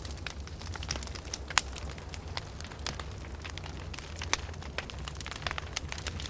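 Wood fire crackling in a fireplace: irregular sharp snaps and pops over a steady low rumble, with a louder pop about one and a half seconds in.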